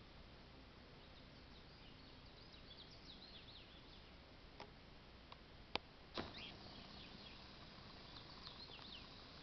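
Faint, quiet outdoor ambience with small birds chirping in short high calls, mostly in two spells, and a couple of sharp clicks a little after the middle.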